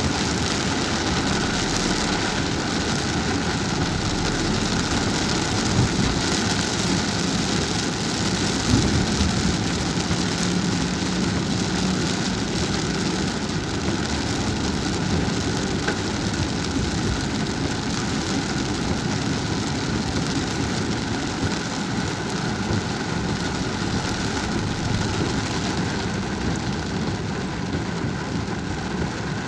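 Steady rain falling on a car while it is being driven, with the car's road and engine noise running underneath.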